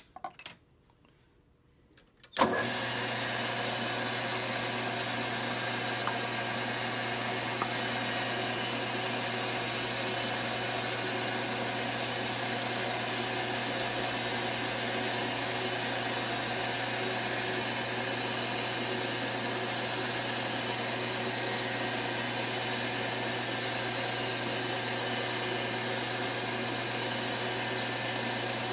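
A couple of clicks, then a metal lathe's motor switches on about two seconds in and runs steadily with a constant hum.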